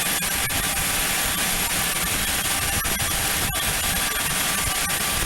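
Learjet business jet's turbofan engines running steadily, a high thin whine over a constant rush of noise.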